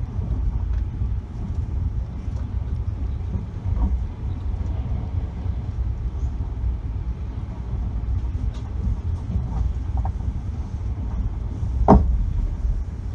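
Russian Railways passenger train heard from inside the carriage: wheels rumbling steadily on the track with scattered faint knocks, and one sharper knock about twelve seconds in.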